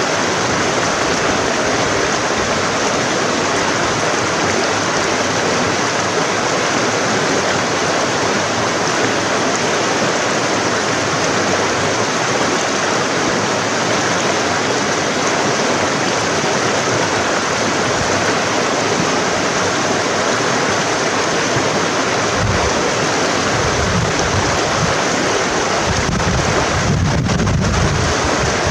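Forest stream running with a steady rush of water. In the last several seconds, low gusts of wind buffet the microphone.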